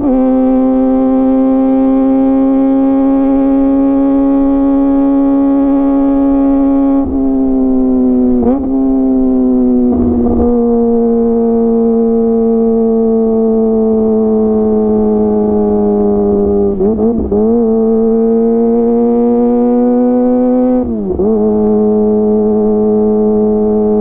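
Kawasaki ZX25R's 250 cc inline-four running at high revs through a DX Generation GPR full-system aftermarket exhaust, a high, steady engine note easing slowly lower, with about five brief dips in pitch that recover at once.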